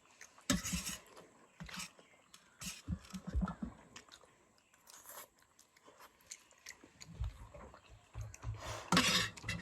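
Chewing instant noodles close to the microphone: irregular short wet clicks and smacks, denser and louder near the end.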